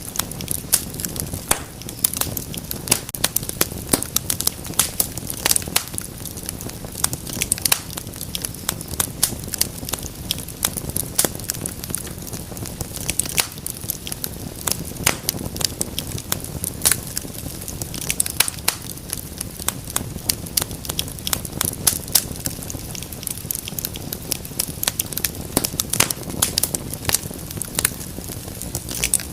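Wood fire burning in a fireplace, crackling and popping in many quick irregular snaps over a steady low rush of flames.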